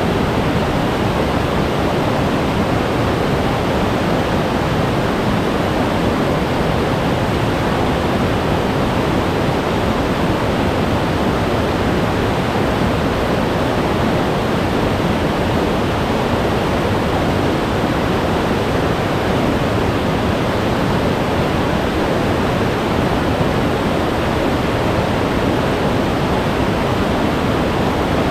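Glacier-fed mountain stream rushing over rocks: a loud, steady, unbroken roar of meltwater.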